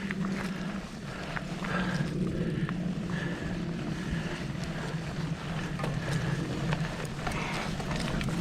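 Mountain bike rolling along a dirt singletrack: steady tyre rumble on the trail, with scattered clicks and knocks from the bike over roots and rocks, and wind on the microphone.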